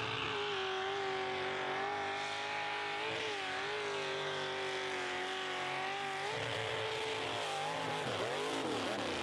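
Mud truck engine held at high revs at full throttle, dipping briefly about three seconds in, easing off about six seconds in, then revving up and down again near the end.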